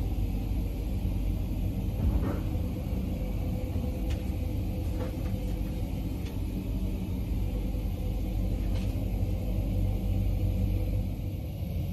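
Steady low rumble of the MOB GoldenPass Panoramic electric train in motion, heard from inside the passenger carriage, with a few faint clicks.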